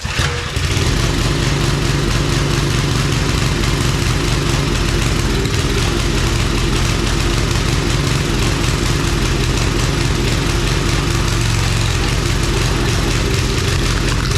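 Old 5 hp Briggs & Stratton single-cylinder engine on a log splitter, running with its new carburettor and no air cleaner. It cuts in suddenly at the start and then runs loud and steady. The owner judges it is not running well and blames an oversensitive governor.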